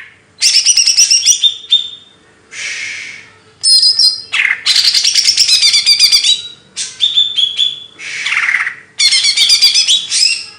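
Songbird singing loud, rapid trilled and chattering phrases in bursts of a second or two with short pauses between, mixed with a few harsher hissing notes. A faint steady hum runs underneath.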